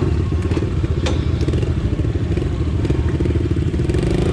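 Pit bike engines running steadily, with a couple of sharp clicks about a second in.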